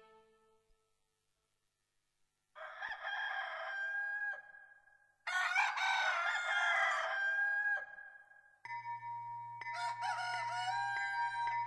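Roosters crowing: two separate crows about three and five seconds in, then more crowing over a steady low hum and a held tone that begin near the end.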